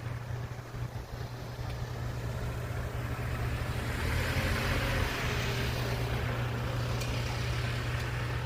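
Motorcycle riding on a road: a steady low engine and wind rumble, with a swell of road or traffic noise that builds about halfway through and then eases off.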